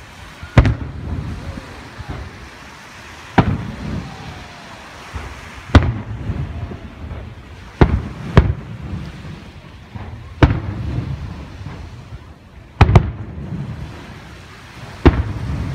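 Aerial fireworks shells bursting over water: about eight sharp booms a couple of seconds apart, each followed by a low rolling echo.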